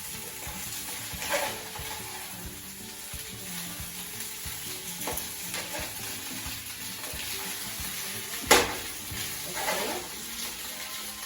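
Chicken pieces sizzling as they fry in oil and sauce in a pan over a raised flame, meant to char them slightly. It is being stirred, with a utensil scraping and knocking against the pan now and then; the loudest knock comes about eight and a half seconds in.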